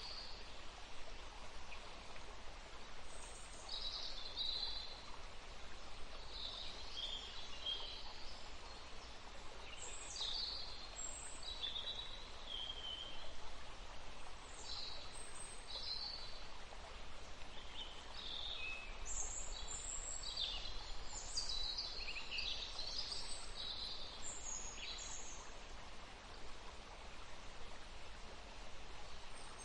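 River water running steadily, with songbirds calling and singing in short phrases over it, busiest in the second half.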